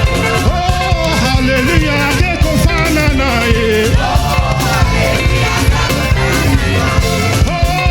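Live gospel praise music: a singing voice carries the melody over a band with a steady drum beat.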